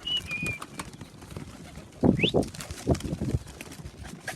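Young racing pigeons at the loft: low cooing, with two short high whistles, the second one rising.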